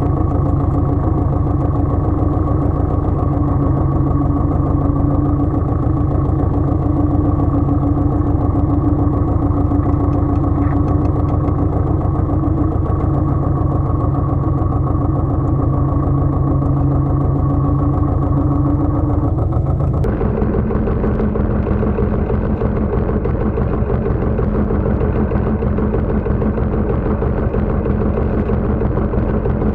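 Pasquali 980 EX tractor engine running steadily. About two-thirds of the way through, the engine sound changes abruptly to a different pitch.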